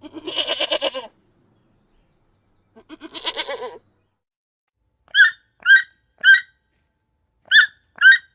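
Goat bleating twice, each bleat about a second long with a quavering tremble. These are followed by five short, high-pitched chirping calls from another animal.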